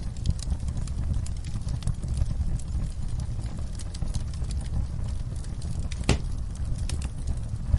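Wood fire burning in a fireplace: a steady low rumble of flame with irregular sharp crackles and snaps from the burning logs, one louder pop about six seconds in.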